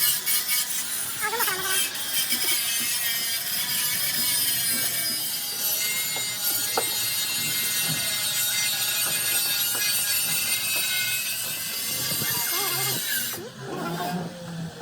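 Power tool running steadily on metal, a dense high hiss with a whine, that cuts off abruptly near the end.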